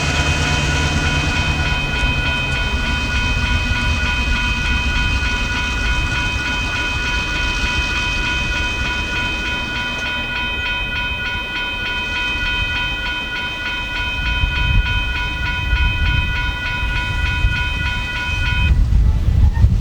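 Freight train rumbling on the track while a grade-crossing warning bell rings steadily; the bell stops abruptly near the end and the rumble grows louder.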